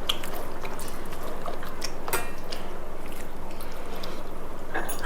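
Wet chewing and mouth smacks of someone eating rice with chicken curry: scattered short clicks over a steady background hiss.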